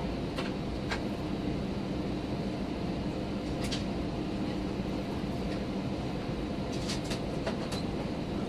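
Steady cabin rumble inside a Lufthansa Airbus A319, with a low hum under it and a few short clicks or rattles.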